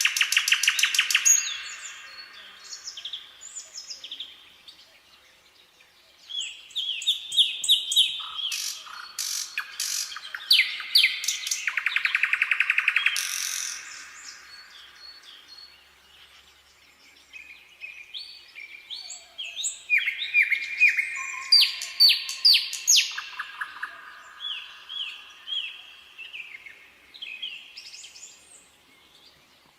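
Songbirds singing: three bouts of rapid trills and quick sliding notes, the loudest at the start, around the middle and again after about two-thirds of the way, with quieter chirping between.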